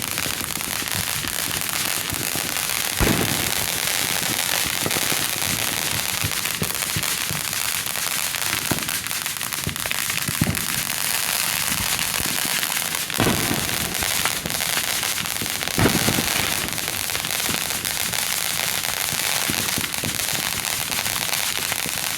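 Fireworks going off: a dense, unbroken crackling, with several louder bangs spread through it.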